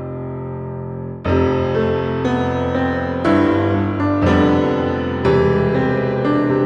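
Background piano music: a held chord fades, then from about a second in new chords are struck roughly once a second.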